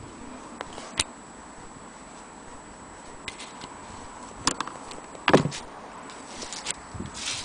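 Scattered metallic clicks and knocks from an antique Willcox & Gibbs sewing machine being handled, with one louder knock about five seconds in.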